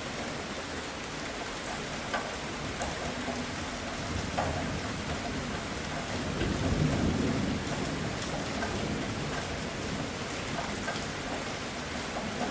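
Heavy, steady rain with scattered drop impacts, and a low rumble of thunder that swells and fades about halfway through.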